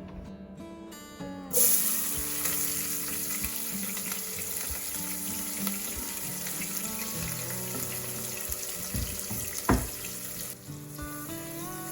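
Food sizzling in hot oil, starting suddenly with a loud hiss about a second and a half in and frying steadily after, with a single knock near the end. Light background music plays throughout.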